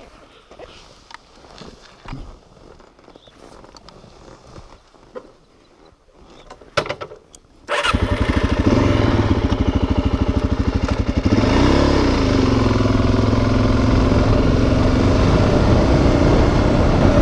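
Suzuki DRZ400's single-cylinder four-stroke engine starting after a quiet stretch with a few faint clicks and knocks. It catches about eight seconds in, is blipped once, rising and falling in pitch, then runs steadily.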